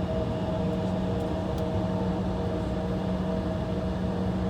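Steady cabin drone inside an Embraer E175 waiting with its engines idling: a low rumble with a few held hum tones.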